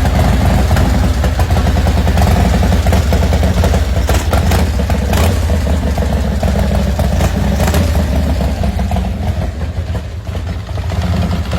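Custom 2003 Harley-Davidson Softail's 107-cubic-inch V-twin engine running loud and steady, dipping slightly about ten seconds in before picking up again.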